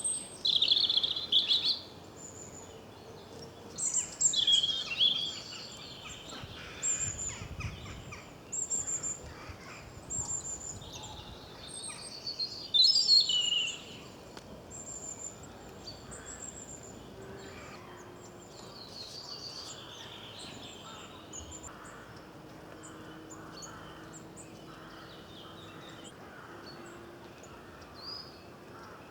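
Small songbirds singing and calling, a run of loud, quick, high song phrases every second or two in the first half, then quieter song carrying on.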